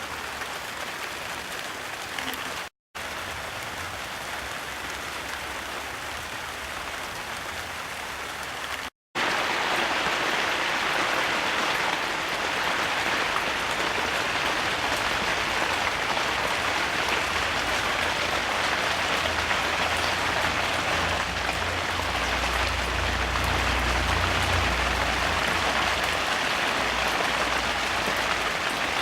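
Steady rain falling, a continuous hiss. It drops out twice in the first ten seconds and is louder after the second break, with a low rumble for a few seconds past the middle.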